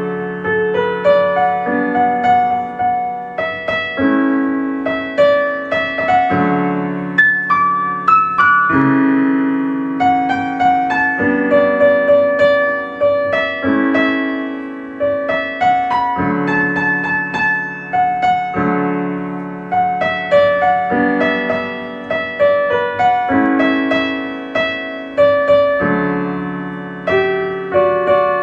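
Soft, slow piano music: gentle chords and single notes that ring and fade, over held low notes.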